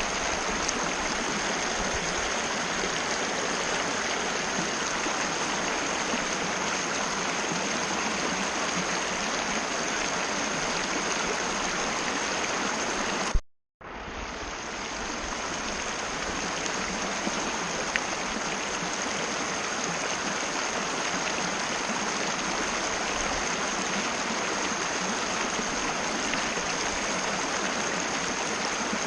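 Mountain river rushing steadily over rocks, an even wash of water noise with a thin steady high tone above it. About halfway through the sound cuts out for a moment and fades back in.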